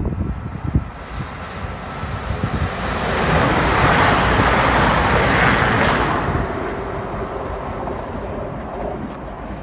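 CrossCountry Voyager diesel multiple unit passing through the station at speed: a rush of wheel, rail and air noise that builds, is loudest for a couple of seconds as the train goes by close, then fades away.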